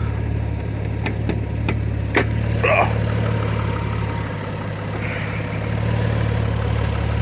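Alfa Romeo 156's Busso V6 idling steadily with a low hum, fitted with an aftermarket sports exhaust. A few sharp clicks sound in the first couple of seconds.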